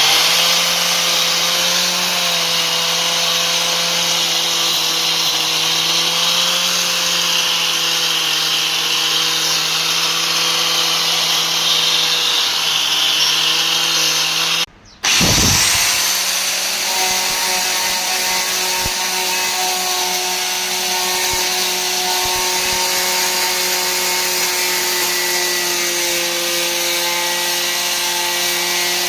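Electric power tool running at a steady speed while cleaning rust off a diesel engine. About halfway through the sound drops out for a moment, then the motor spins back up and carries on steadily.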